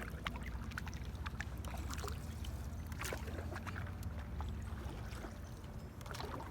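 Canoe paddle strokes: the paddle dipping and water splashing and dripping, a stroke about every three seconds, over a low steady rumble.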